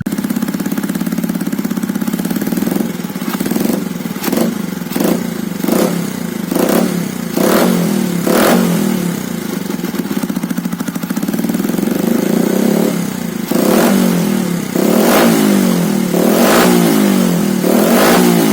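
Motorcycle engine running through a newly fitted aftermarket WRX exhaust, revved in a quick series of throttle blips, then held at higher revs with more blips from about two-thirds of the way in.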